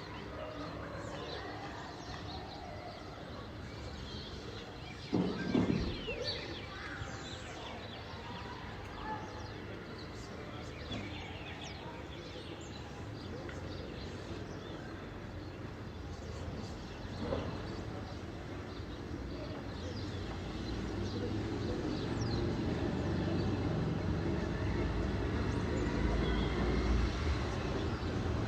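Residential neighbourhood ambience: birds chirping over a steady background of distant traffic. There is a loud knock about five seconds in and a softer one later. Over the last third a low vehicle rumble grows louder as it approaches.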